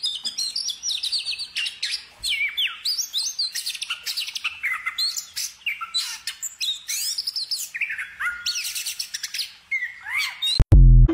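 Several garden birds chirping and singing, with many quick rising and falling calls overlapping. About ten and a half seconds in, a short, loud, low electronic tone cuts across them.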